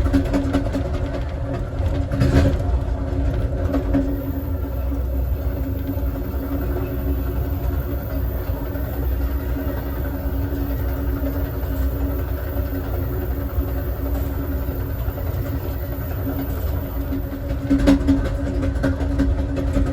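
Amtrak Southwest Chief passenger train running: a steady low rumble of wheels on rail with a constant hum, and a few louder clacks about two seconds in and near the end.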